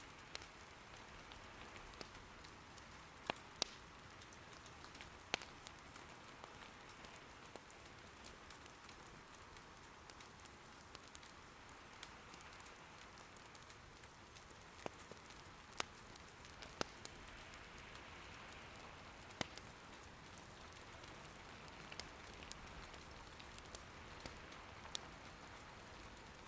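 Soft, steady rain patter with scattered sharp pops, a dozen or so, from the wood crackling in an irori hearth fire.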